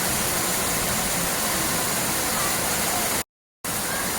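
Steady rushing noise, broken by a sudden cut to silence for a moment a little over three seconds in.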